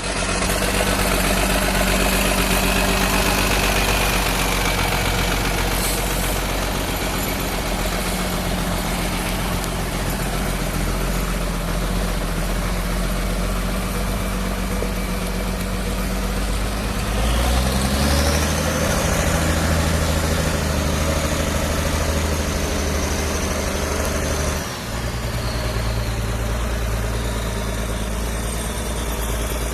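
Zetor tractor diesel engine running at idle, then revved up about 17 seconds in and held at the higher speed for several seconds before dropping back to a lower speed.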